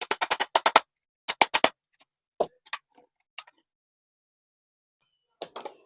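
A quick run of sharp taps, about seven in the first second, then three more about a second and a half in, a few scattered fainter ones, and a short cluster near the end.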